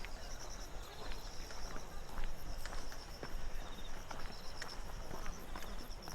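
Insects chirping in steady pulsed trills, with a walker's footsteps on the path about every half second to second.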